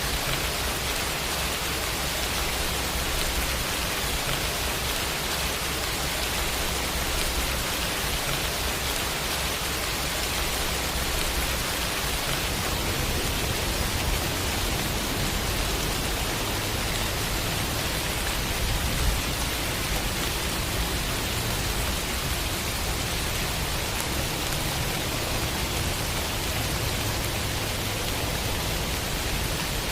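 Steady rain sound effect: an even, continuous hiss of falling rain, without pauses.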